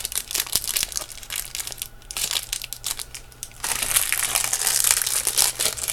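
Thin plastic packaging crinkling and rustling as it is handled, with a run of small crackles that gets louder and denser a little past halfway through.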